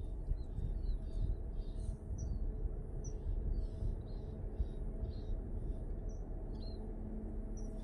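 A small bird chirping repeatedly, short high calls about twice a second, over a steady low background rumble.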